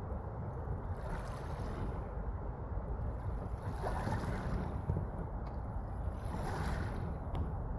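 Steady low rumble of wind on the microphone, with no distinct events.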